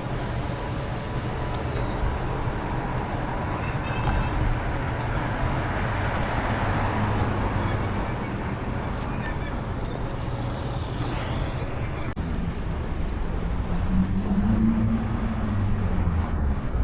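Urban street ambience: a steady rumble of traffic, with one vehicle passing that is loudest about six to seven seconds in.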